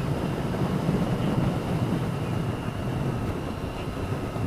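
Motorcycle being ridden at a steady speed: a steady low engine drone mixed with road and wind noise.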